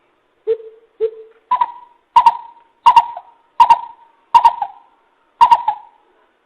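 Coucal (bìm bịp) calling a series of about eight short hollow hoots, one to two a second. The first two are lower and softer, and the rest jump higher and louder.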